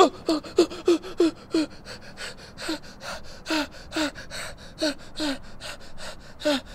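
A person's voice in quick, uneven short breaths, about three a second, each with a brief falling pitch.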